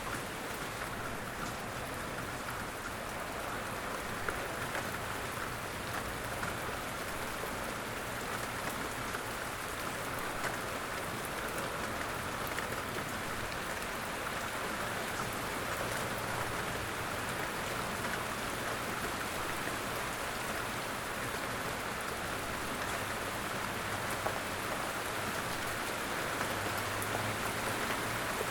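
Steady light rain falling, with scattered individual drops ticking close by. A low rumble comes in near the end.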